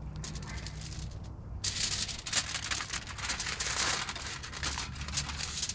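Aluminium foil crinkling and rustling as it is folded and wrapped by hand, the crinkling starting loudly about one and a half seconds in and going on as a dense run of fine crackles.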